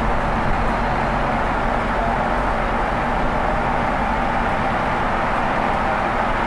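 Scania UNVI Urbis double-decker CNG city bus running steadily, a continuous engine and road drone with a low hum that doesn't change.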